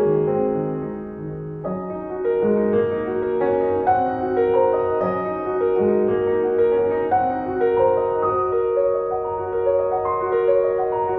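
Background music: slow, gentle piano playing sustained chords and a simple melody.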